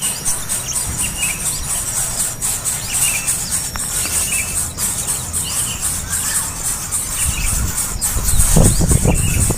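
Small birds chirping in short calls that repeat about once a second over a steady high hiss, with a low rumble near the end.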